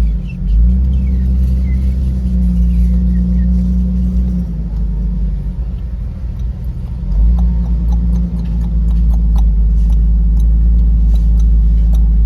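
Car driving along: a steady low rumble of engine and road noise, swelling louder about seven seconds in.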